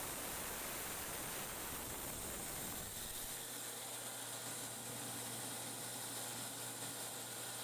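LM 100 mini rice huller, driven by an electric motor, running steadily with a hissing, rushing noise. About three seconds in the deep rumble drops away, leaving a steady low hum under the hiss.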